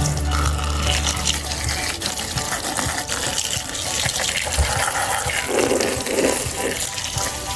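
Water running steadily from a tap or hose and splashing, as muddy toy vehicles are washed.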